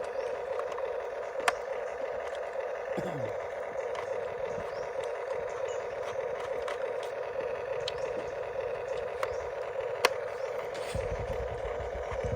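Small electric motor and gearbox of a radio-controlled model truck running steadily, with a few sharp clicks; a low rumble comes in near the end.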